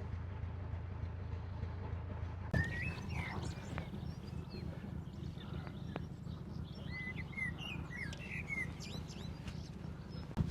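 Narrowboat's diesel engine running with a steady low, pulsing hum. A sharp click comes a couple of seconds in, and after it birds chirp and call over the engine.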